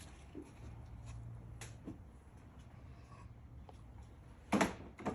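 Hands working on plastic engine intake parts: a few light clicks and handling noises, then a short loud scrape about four and a half seconds in and another just before the end.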